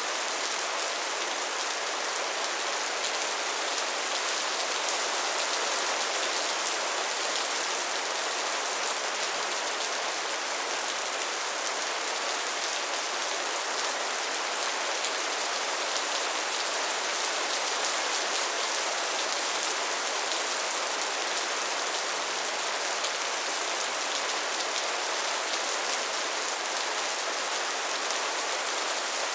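Soft, steady rain falling, an even patter of drops with no thunder.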